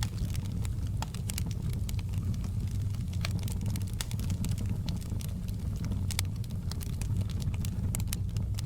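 Fireplace fire crackling, with frequent sharp pops at irregular intervals over a steady low rumble.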